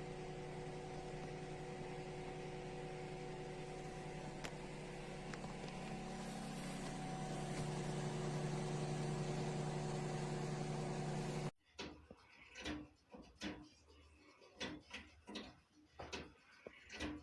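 A steady mechanical hum with several fixed tones, growing a little louder partway through, then cutting off suddenly about eleven seconds in. After it comes a run of quieter, irregular clicks and knocks.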